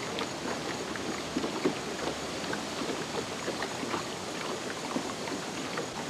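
Rushing floodwater: a steady noisy rush dotted with many small, irregular splashes.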